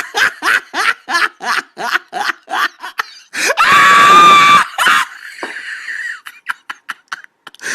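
A person's voice laughing in short rapid bursts, about four a second, then breaking into a loud high scream that lasts about a second.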